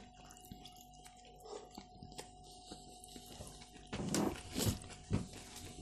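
Close-miked eating: quiet chewing and biting of sushi rolls and salad, with small clicks throughout and a few louder mouth sounds about four to five seconds in.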